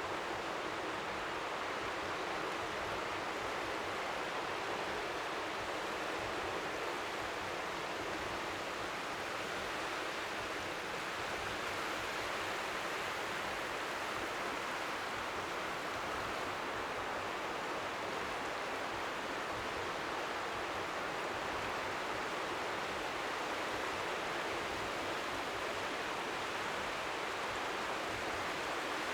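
Steady seaside noise of strong wind with faint waves lapping at the shore, blending into an even hiss.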